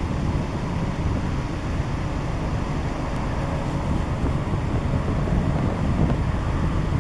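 Steady low rumble with wind buffeting the microphone, the background noise of jet aircraft at an airport.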